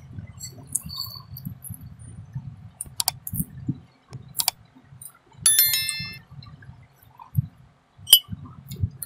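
Close-up chewing of mouthfuls of puffed rice (muri) and fritters, a steady low wet mouth sound. About three seconds in come two sharp clicks, then a bright bell-chime sound effect, the loudest thing here, ringing in short stepped notes for under a second.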